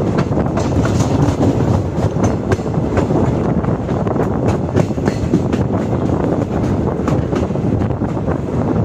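Train running along the track: a steady, loud rumble of wheels on rail, with many sharp clicks as the wheels pass over the rails.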